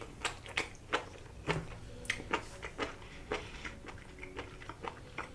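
A person chewing sushi, with irregular wet mouth smacks and clicks about two a second.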